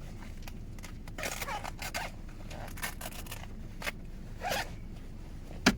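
Things being handled and rummaged through: a run of short rasping scrapes and rustles, then one sharp click near the end.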